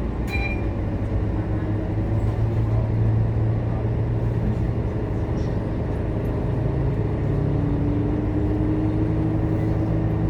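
Scania K230UB bus's diesel engine running steadily, heard from on board, with a low hum and an engine tone that rises slightly in pitch over the last few seconds. A short high beep sounds about a quarter second in.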